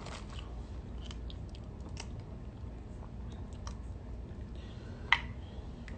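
A person chewing seafood close to the microphone, with scattered light clicks and one sharp click about five seconds in.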